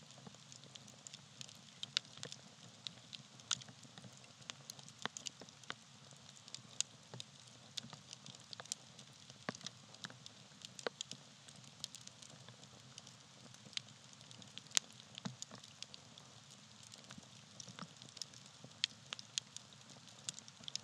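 Campfire of tree bark crackling, with frequent irregular sharp pops and snaps over a soft steady hiss of burning.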